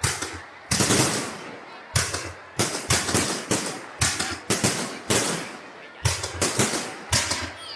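Fireworks shells bursting in quick succession, roughly two loud bangs a second, each trailing off before the next.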